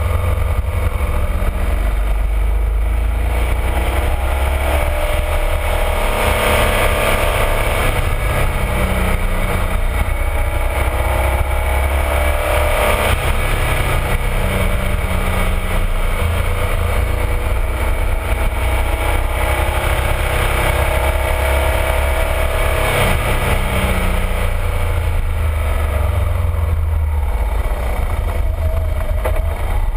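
BMW R1200RT motorcycle's boxer twin engine running under way. Its pitch rises and falls several times as the bike speeds up and slows through the bends, under a steady low rumble of wind on the microphone.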